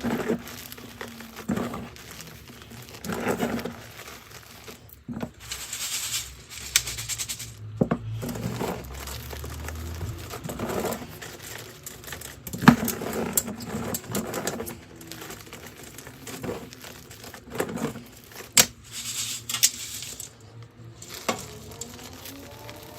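Blocks of gym chalk being crushed and crumbled, giving irregular crunches and powdery crackles. The sharpest crunch comes a little past halfway.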